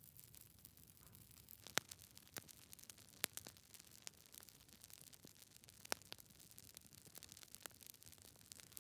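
Wood fire burning in a fireplace, logs crackling with faint, irregular sharp pops over a low hiss; the loudest pops come about two, three and six seconds in.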